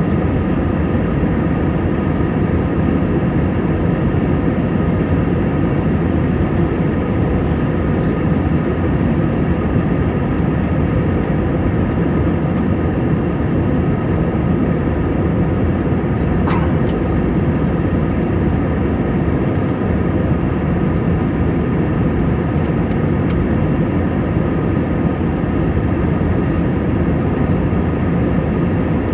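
Airbus A320 in flight: a loud, steady rumble of engines and airflow, with faint steady whining tones above it that do not change for the whole time.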